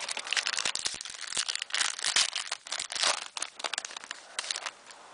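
Foil trading-card pack wrapper crinkling and tearing as it is opened, a dense run of crackles that stops shortly before the end.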